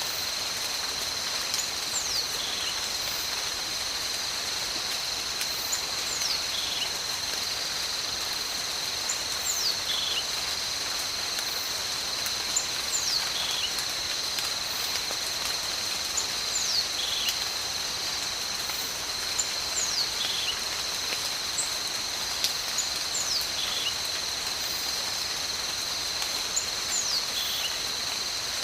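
Steady tropical rain hiss under a constant high insect drone. An animal's call of two quick falling whistles, followed by a short lower note, repeats about every three and a half seconds.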